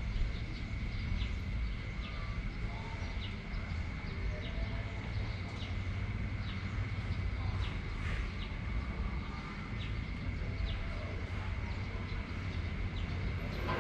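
Wind rumbling on the microphone, with a steady high-pitched drone and short chirps from an animal repeating irregularly, about once a second.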